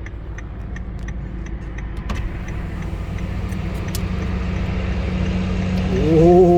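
Diesel engines of tracked K55 self-propelled howitzers droning steadily and growing louder as the convoy comes closer, with faint regular ticking in the first two seconds. Near the end one engine revs up and back down, the loudest moment.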